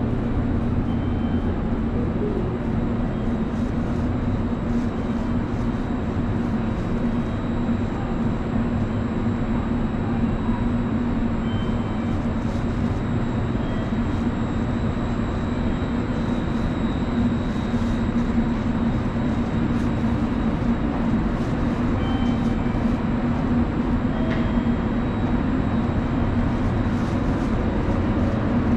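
Steady drone of a JR Kyushu 883 series electric train standing at the platform, a low hum that holds level with no rise or fall.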